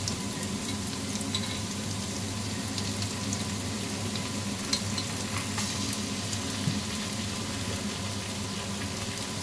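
Sliced onions sautéing in margarine in a ceramic-coated wok over medium heat: a steady sizzle with scattered small crackles.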